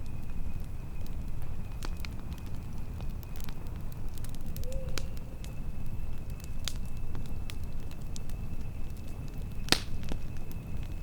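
Wood campfire burning: scattered crackles and snaps over a steady low rumble, with one loud pop a little before the end.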